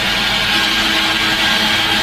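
CNC Drillboy drilling and routing machine running steadily while machining a recessed handle into a panel edge: an even machine noise with a high whine and a low hum that joins about half a second in.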